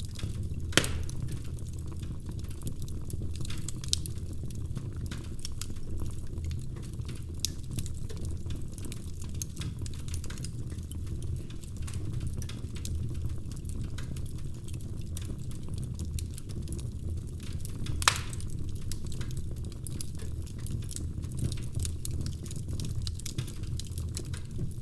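Wood fire crackling in a fireplace: a steady low rumble with scattered sharp pops and snaps, the loudest about a second in and again at about 18 seconds.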